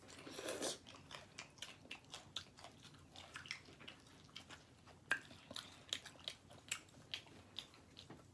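Close-up chewing of pizza: soft, wet mouth clicks and smacks at an uneven pace, with a slightly louder click about five seconds in.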